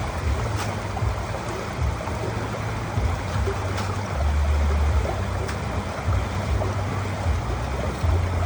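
Steady rushing noise of flowing water, with an uneven low rumble underneath.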